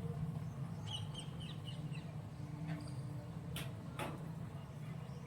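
A few short, faint bird chirps about a second in, over a steady low hum, with two sharp clicks near the end.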